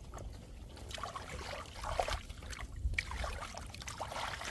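Shallow muddy water sloshing and trickling in irregular splashes as hands grope through the mud of a drained rice field for catfish.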